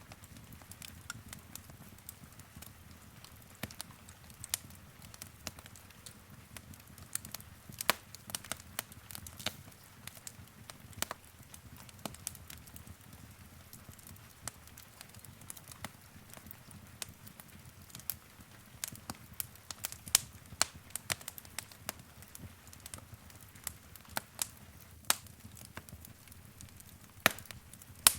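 Wood fire crackling and popping: irregular sharp snaps, some louder than others, over a low steady rumble of burning.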